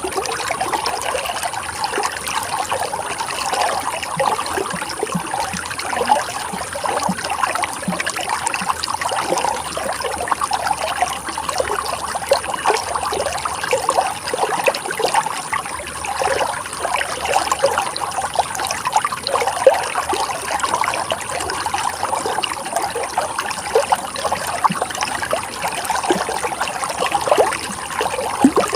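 Running water flowing steadily: a continuous rush made of many small splashes, even in level throughout.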